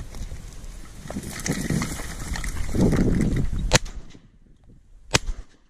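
Two shotgun shots about a second and a half apart, the first the louder, over wind buffeting the microphone that drops away about four seconds in.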